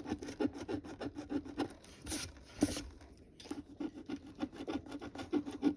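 Scratch-off lottery ticket being scratched in quick, short rasping strokes, several a second, with a brief pause a little past the middle.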